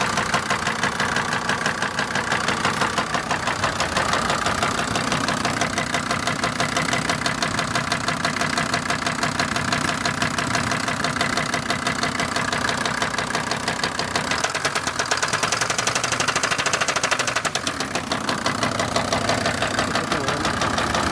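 SsangYong Rexton engine running with a rapid, steady knock, an unusual noise likened to piston noise. The knocking comes faster for a few seconds past the middle.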